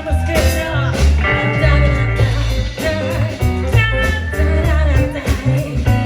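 A band playing live: electric guitar, bass and drums with a singing voice, in a bluesy rock style.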